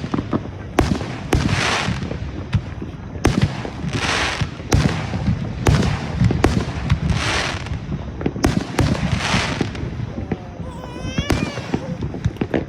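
Fireworks going off one after another: sharp bangs, several followed by a spreading crackle. About ten seconds in, a brief warbling whistle sounds.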